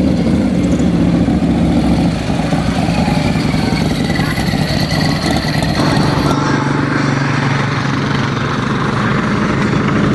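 Motorcycle engines running steadily, with an abrupt change in the engine sound about six seconds in.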